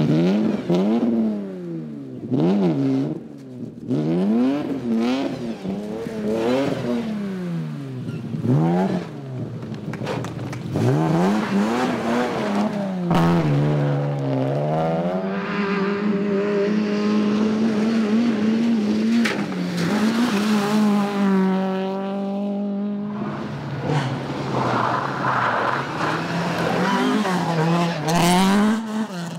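Rally car engines revving hard on a stage. Over the first ten seconds the pitch swings quickly up and down with throttle blips and gear changes, then the revs hold high and fairly steady for much of the rest.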